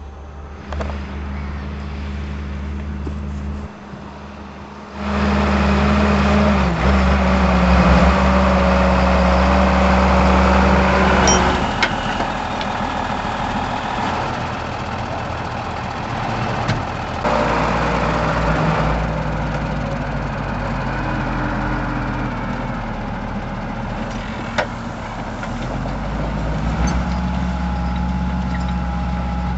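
Lamborghini R7 200 tractor's diesel engine working while ploughing. The engine note steps up and gets louder about five seconds in, eases back around twelve seconds, and rises again near the end, as the load and revs change.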